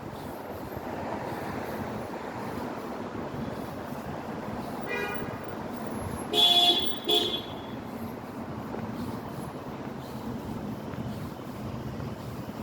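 Street traffic noise with a vehicle horn honking twice about six and a half seconds in, a longer honk followed by a short one.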